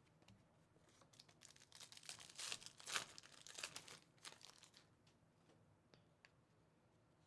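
A Prizm basketball hobby pack's wrapper being torn open and crinkled: a faint run of crackling that starts about a second in, peaks near the middle and dies away about five seconds in.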